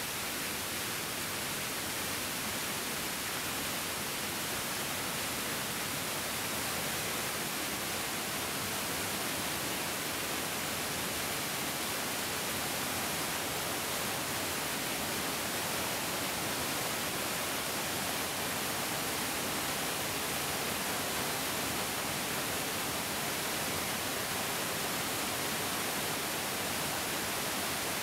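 Mountain stream flowing and rushing over rocks, a steady, even hiss of water with no breaks or changes.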